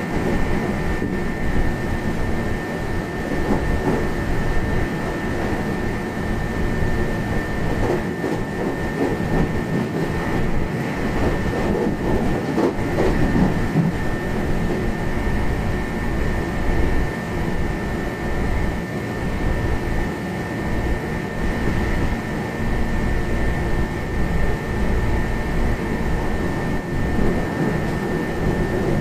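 Running noise inside a Meitetsu 1200 series rapid limited express car at high speed, about 120 km/h: a steady dense rumble of wheels and running gear with a steady high whine over it.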